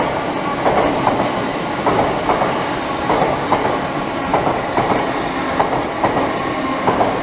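LNER express passenger train's coaches passing at speed, wheels clattering over the rail joints in a steady run of clicks, often in pairs.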